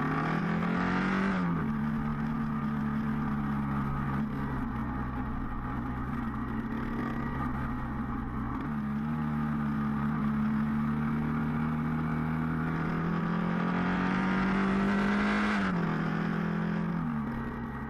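1981 Honda XL500 café racer's single-cylinder four-stroke engine running at speed on a track, heard from a camera mounted on the bike. The engine pitch holds fairly steady, dropping as the revs fall about a second and a half in and again near the end.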